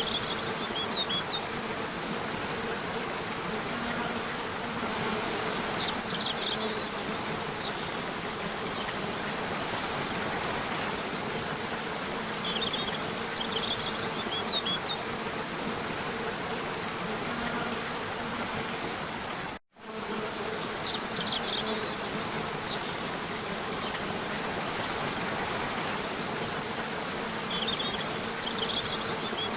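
Nature soundscape: a steady rush of flowing water with a faint low hum under it, and clusters of short high chirps that come back every six seconds or so. The whole sound cuts out for an instant about two-thirds of the way through.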